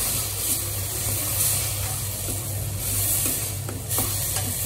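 Tomato puree and spiced onion masala sizzling in hot oil in a stainless steel pan while being stirred, with a few light scrapes of the spoon against the pan in the second half. A low steady hum runs underneath.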